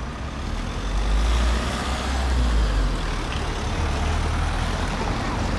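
A heavy road vehicle, such as a lorry or bus, running past close by with a deep engine rumble that swells about a second in, over general traffic noise.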